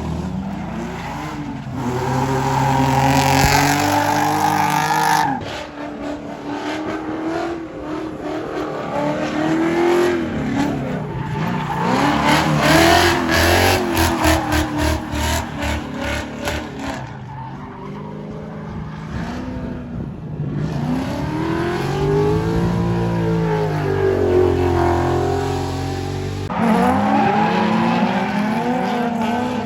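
Car engines revving, the pitch rising and falling again and again as in hard driving, with a fast stuttering in the middle stretch.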